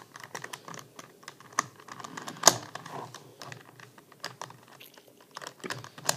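Plastic pieces of a 4x4 puzzle cube clicking and snapping as they are handled and pressed into place: a rapid, uneven run of small clicks with one loud snap about two and a half seconds in.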